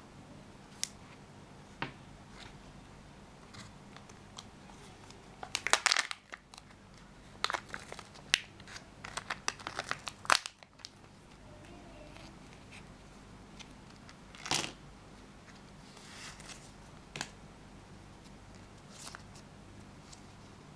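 Plastic wrapping of a Kinder Joy surprise egg and its toy capsule crinkling and tearing as it is opened by hand, with scattered small plastic clicks. The handling comes in two denser flurries about six and eight to ten seconds in.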